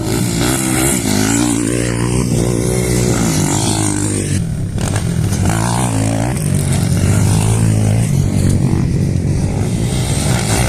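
Motorcycle engines running loud and revving, the pitch rising and falling again and again.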